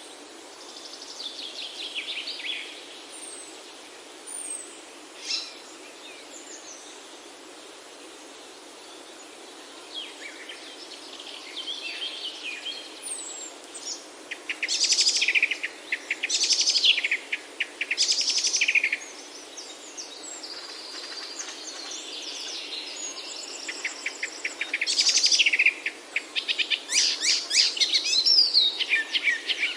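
Songbirds singing in short phrases of chirps and rapid trills, sparse at first and becoming louder and busier in the second half, over a steady faint hiss of background noise.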